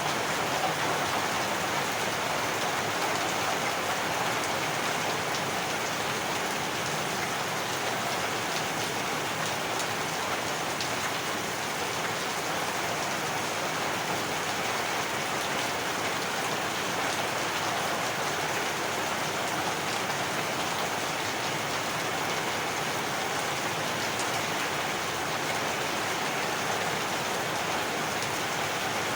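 Heavy rain falling steadily, a dense, even hiss of drops on surfaces that fades in at the very start.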